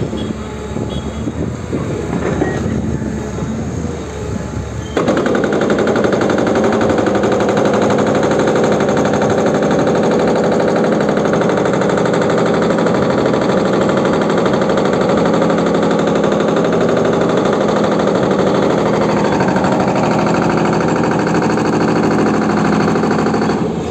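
Excavator demolishing a house: irregular knocks and crunching at first, then about five seconds in a loud, steady, very rapid hammering starts abruptly and keeps on until it eases near the end.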